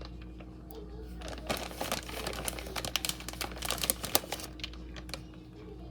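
A quick, irregular run of light clicks and taps for a few seconds, over a steady low hum.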